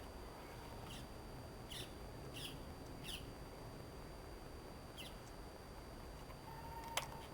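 Faint birds chirping outdoors: about six short, falling calls spread over several seconds above a low background rumble. A single sharp click comes near the end.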